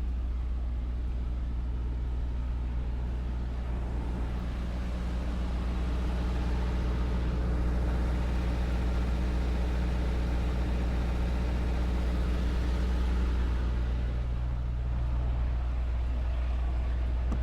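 Semi truck's diesel engine idling, heard from inside the cab: a steady low rumble that swells slightly in the middle.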